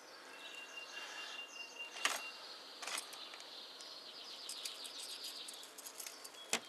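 Faint outdoor birdsong: small birds chirping, with a rapid trill in the middle and a thin steady whistle in the first two seconds. A few sharp clicks cut through, about two and three seconds in and again near the end.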